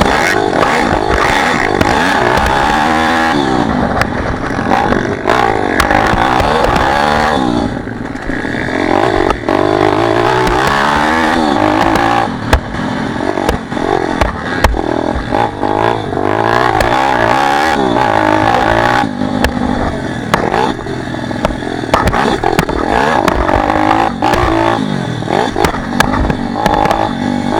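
Pit bike engine revving hard and backing off again and again as the bike is ridden round the track, with frequent clattering knocks.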